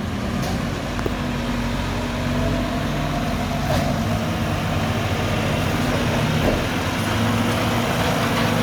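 Diesel engine of a Mack front-loader garbage truck running steadily.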